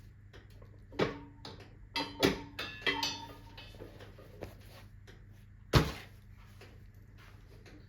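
A wood fire crackling faintly, broken by several sharp knocks and clinks with a brief metallic ring. There is a single knock at about a second in, a quick cluster a second later, and the loudest, single knock near the end.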